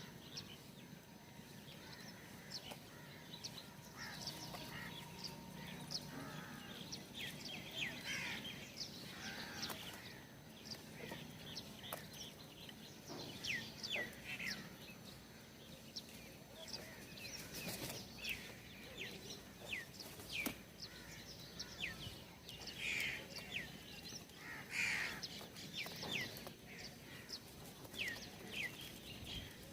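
Small birds chirping at a bird feeder: many short, quick, falling chirps, scattered and overlapping throughout, over a faint low steady hum.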